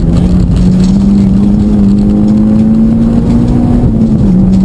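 Mitsubishi Lancer Evolution X's turbocharged 2.0-litre four-cylinder engine heard from inside the cabin, pulling hard with its pitch slowly rising, then dropping back about four seconds in, over steady road and tyre noise.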